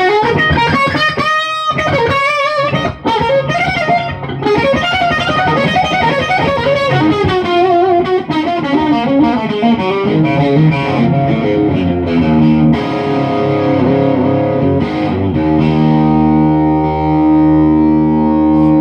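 Electric guitar with Lindy Fralin pickups in a single-coil setting, played through an amp with some distortion: quick lead lines with bent, wavering notes, then a held chord left ringing near the end.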